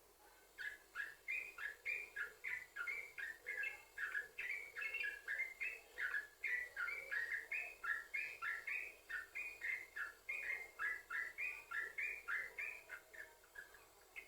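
Yellow-vented bulbul (trucukan) singing a long, continuous run of quick chattering notes, about four a second, starting about half a second in and thinning out near the end.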